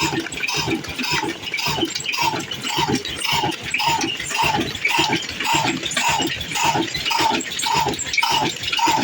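Old diesel engine running slowly with a steady, even beat about twice a second, each beat carrying a short, slightly falling squeak-like tone.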